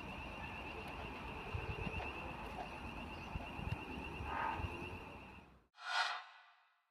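A distant train approaching, heard as a low rumble with wind noise, under a steady high warbling tone. The sound cuts off abruptly near the end, followed by a short burst of noise that fades to silence.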